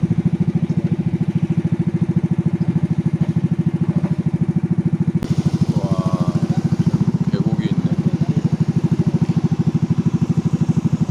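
Motorcycle engine running steadily with an even beat of about eleven pulses a second, holding the same speed throughout.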